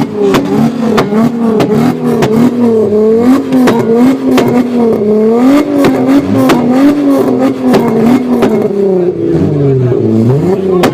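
Volkswagen Golf Mk3's VR6 engine, a narrow-angle six-cylinder, revved in repeated quick blips, its pitch rising and falling over and over, with sharp clicks throughout. The engine is not yet fully up to temperature.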